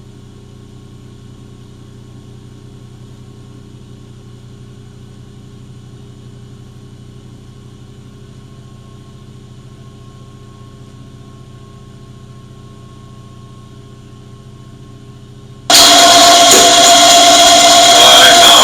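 A faint steady electric hum, then near the end a drill motor starts abruptly and runs loudly, driving an annular cutter.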